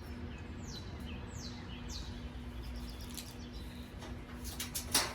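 A bird calling three high whistles, each falling in pitch, over a steady low hum. A few short clicks follow, and a loud sharp crack comes just before the end.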